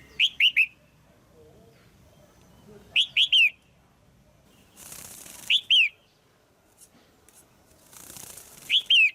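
Female red-whiskered bulbul calling: four quick bursts of two or three short, sharp, downslurred notes, about every three seconds. A soft rushing hiss sounds twice between the bursts.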